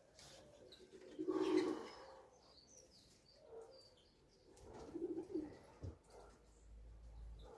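Pigeons cooing: short pulsed coos about a second and a half in, again at three and a half seconds, and twice around five seconds, with small birds chirping faintly.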